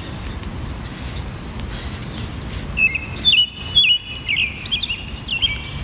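A bird chirping, a quick series of short high calls, each dropping sharply into a brief held note, from about three seconds in. Under it runs a steady low rumble.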